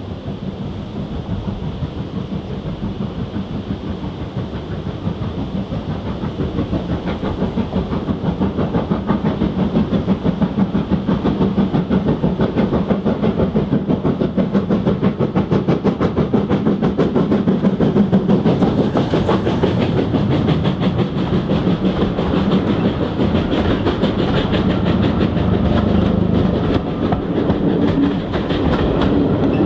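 Steam locomotive working a train, its exhaust beats coming in a fast, even rhythm and growing louder over the first ten seconds or so as it draws near.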